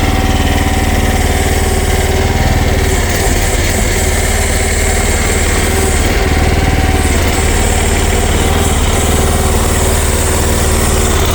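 Future FT15 mini excavator's engine running steadily, with a brief waver in its low hum about three to four seconds in.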